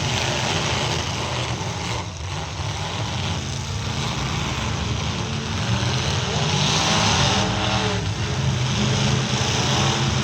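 Engines of several pickup trucks in a demolition derby running and revving, their pitch rising and falling as the trucks drive and push against each other.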